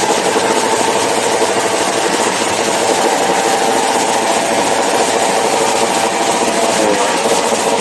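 Small motorcycle engines held at high revs in a rev contest: a loud, steady mechanical drone, with one pitch dipping and rising briefly near the end.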